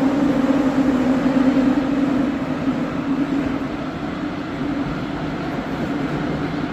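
Moscow Metro 81-717.5M/81-714.5M train running through the tunnel between stations: a steady rumble and rush of wheels on rail with a low hum that fades after about a second, the whole sound easing a little about two seconds in.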